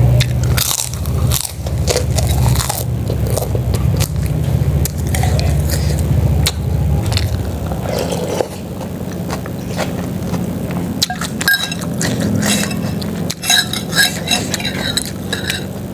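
Close-up eating sounds: a spoon scraping and clinking against a soup bowl, with biting and chewing, and a cluster of sharp clinks near the end. A low steady rumble runs under the first half and fades out about seven seconds in.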